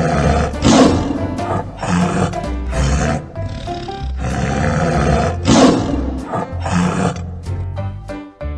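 Tiger roaring, twice, over bright background children's music with a steady bass line.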